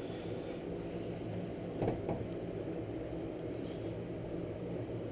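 Steady low hum in the background, with two faint clicks about two seconds in as a wire is worked through the rope hole of a recoil pull-starter housing.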